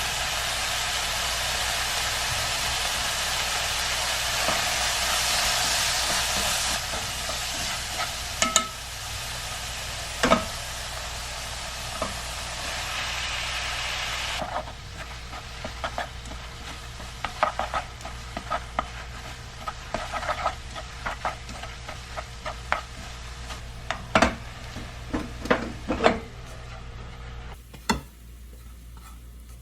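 Food sizzling in a frying pan, the hiss loudest in the first few seconds and falling away sharply about halfway through. Scattered clinks and taps of a utensil against the pan follow.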